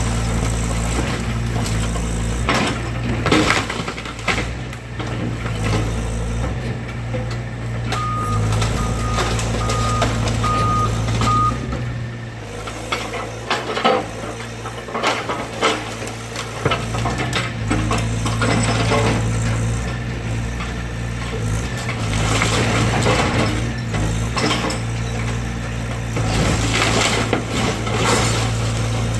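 Excavator's diesel engine running steadily while the machine crunches and knocks through the wreckage of a demolished garage, with repeated clattering impacts throughout. A backup alarm beeps about five times about a third of the way in.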